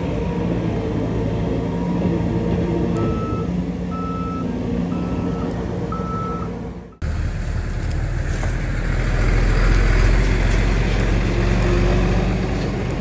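Heavy diesel machine engine running steadily while a reversing alarm beeps four times, about once a second. About halfway through, the sound cuts off abruptly and gives way to a louder, deeper engine rumble.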